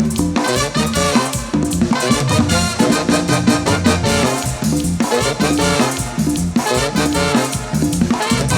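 Live tropical cumbia band playing an instrumental passage, with brass and keyboard over a steady drum-kit beat and bass.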